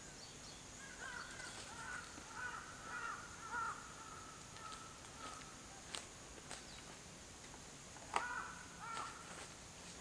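A bird calling outdoors: a run of repeated harsh calls for several seconds, then a second short burst of calls near the end. A couple of sharp clicks are heard between them.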